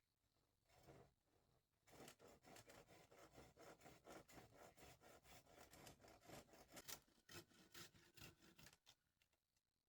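Quick, even scraping strokes, about four or five a second, starting about two seconds in and stopping about a second before the end, with one short stroke before them.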